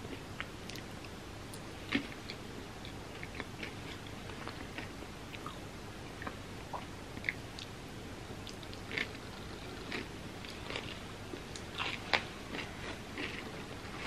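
A person biting and chewing a crispy puffed-rice and peanut-butter candy bar filling, a run of small crackling crunches with a few louder ones about two seconds in and near the end.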